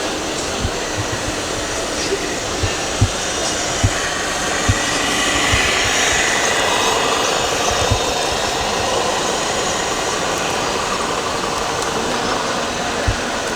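Steady noisy background din with scattered dull low thumps.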